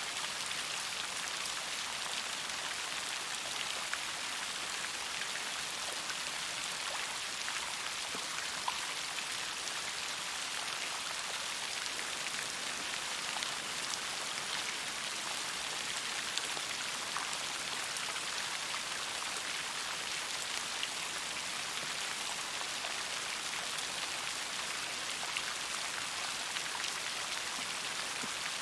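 Steady rainfall, an even hiss of rain with scattered individual drops pattering on a surface.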